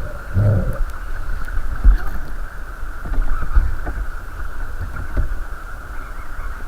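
Steady rush of creek water, with low uneven wind rumble on the microphone and a few light knocks.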